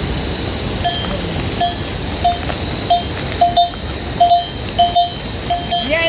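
A small metal bell clanking in an uneven rhythm, about one to two short rings a second starting about a second in, over a steady high hiss.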